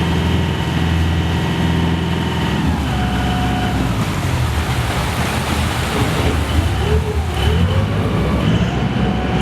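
Diesel engine of a small city ferry running, steady at first, then shifting pitch about a quarter of the way in and wavering through the middle before settling to a steady note again near the end.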